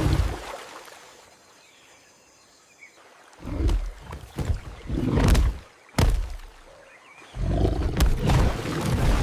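Big-cat growls and roars in short, heavy bursts starting about three seconds in, with one sharp hit in the middle and a longer growl near the end.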